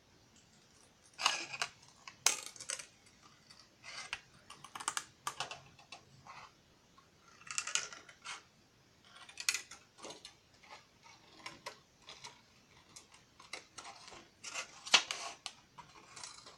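Scissors cutting out a shape from a sheet of shrink plastic: irregular crisp snips and crackles of the thin plastic, in clusters, starting about a second in.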